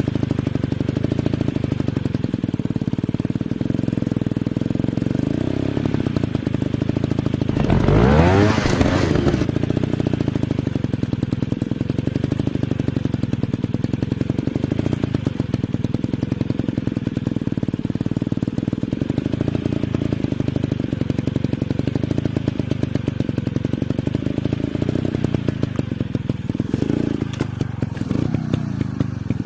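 Dirt bike engine running steadily at low revs close by, with a louder surge about eight seconds in where the pitch swoops up and back down.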